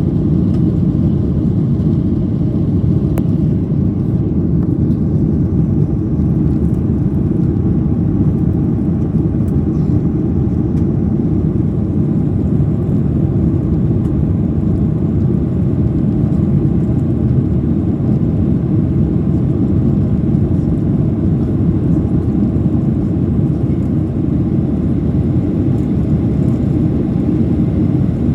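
Steady, loud low rumble of a Boeing 737-800's jet engines heard from inside the cabin.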